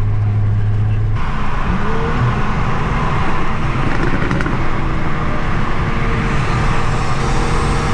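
Infiniti Q50 Red Sport 400's twin-turbo V6 and its tyres at a steady cruise, heard from the car. About a second in, the low drone drops away and the road noise turns brighter.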